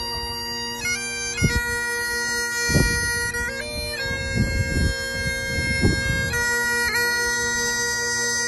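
Highland bagpipes playing a tune: the chanter moves from note to note over the steady drones.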